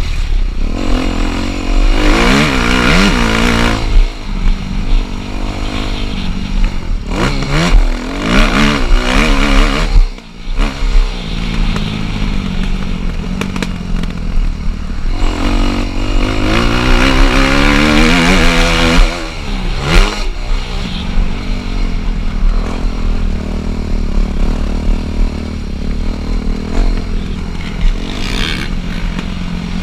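Dirt bike engine being ridden hard, its pitch climbing and falling repeatedly as the rider opens and closes the throttle through the gears. About ten seconds in, the sound drops off sharply for a moment before it picks up again.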